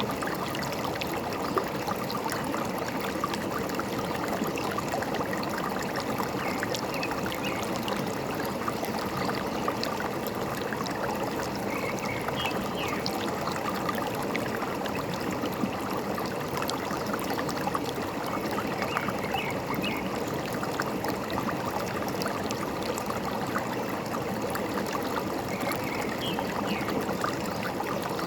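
Small forest stream babbling and trickling steadily over stones, a dense even rush of water with many small splashes. Faint short bird chirps come through a few times.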